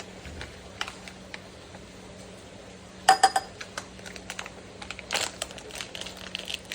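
Light, irregular clicks and taps of kitchen utensils and containers being handled while an omelette is seasoned, with a small cluster about three seconds in. A steady low hum runs underneath.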